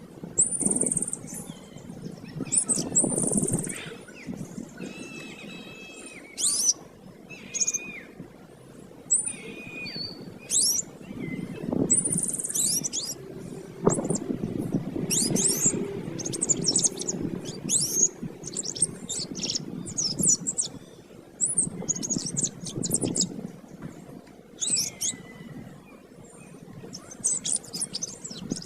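Domestic canary singing continuously: rapid, high chirps and rolling trills in quick phrases, over a low steady background hum.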